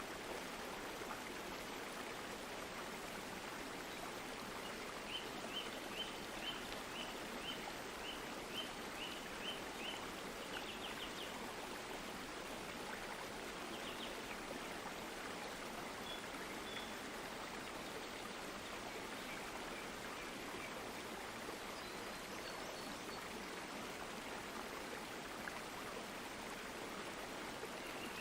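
Stream water flowing steadily. Short high chirps repeat about twice a second for several seconds in the first half, with a few fainter chirps later.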